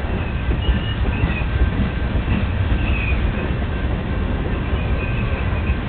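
Freight train of tank cars and hopper cars rolling past at close range: a steady low rumble of steel wheels on rail, with faint high wheel squeals coming and going.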